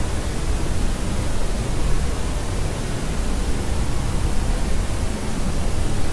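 Steady white-noise track for soothing a baby: an even, unbroken rushing hiss, heavier in the bass, with no cries or other sounds in it.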